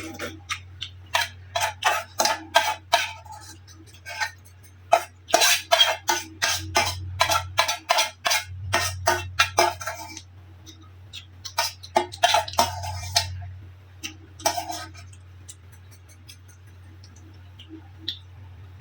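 Cutlery clinking and tapping against a bowl in quick runs of sharp clicks, stirring a bowl of noodles, over a low steady hum.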